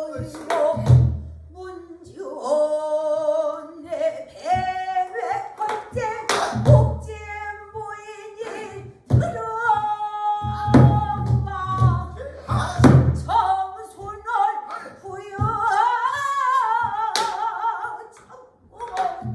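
Pansori singing: a single voice in long, wavering, bending sung phrases, accompanied by a buk barrel drum giving low booms and sharp knocks at irregular intervals.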